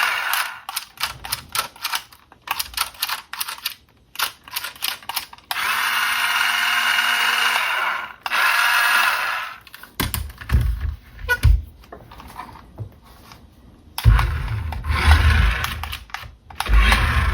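Small electric motor of a toy RC car whirring in short stop-start spells with clicks between them, then knocking and rubbing as the car is handled or runs on a hard surface.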